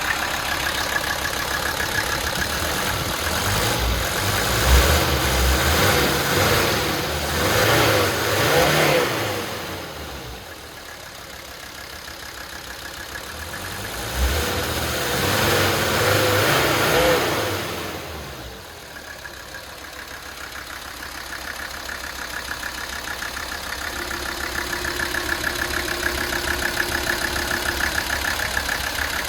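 Mercedes-Benz OM617 five-cylinder turbodiesel engine of a 1980 300SD idling, revved up twice, once in the first third and again around the middle, settling back to idle after each.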